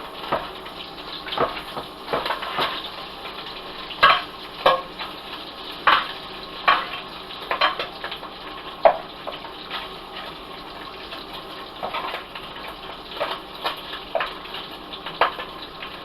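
Food frying in hot oil in a pan: a steady sizzle with sharp, irregular pops of spattering grease about once a second.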